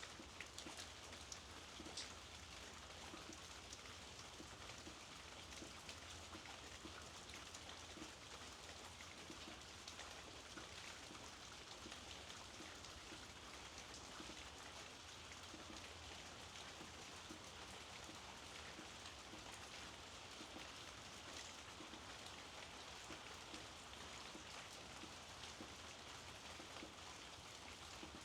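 Steady, soft rainfall, with scattered individual drops ticking.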